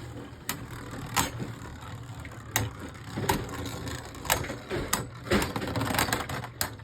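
Two Beyblade Burst tops spinning in a plastic stadium: a steady whir with irregular sharp clacks as they hit each other and the stadium walls.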